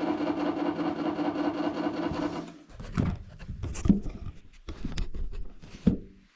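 Wood-Mizer LT40 sawmill engine running steadily at idle for a couple of seconds, then it stops and a run of irregular wooden knocks and thumps follows as a sawn timber is handled onto the siding jig.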